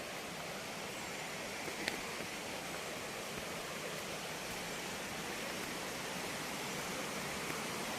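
Steady rushing of flowing water heard from a distance, an even hiss with no rhythm, and a single faint click about two seconds in.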